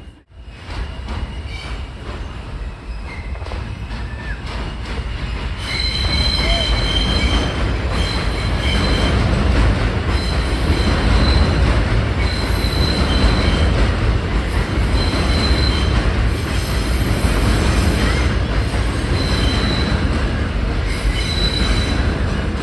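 New York City subway M train running on the rails with a steady rumble that grows louder over the first few seconds. From about six seconds in, the steel wheels squeal on the track in high-pitched bursts that come and go repeatedly.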